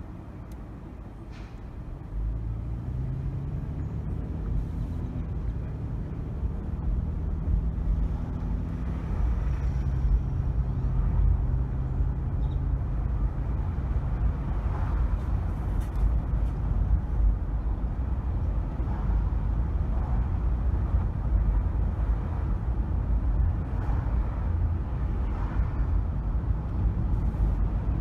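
A car driving in city traffic: about two seconds in the engine note picks up and climbs slowly in pitch as the car accelerates, then gives way to a steady low road and tyre rumble.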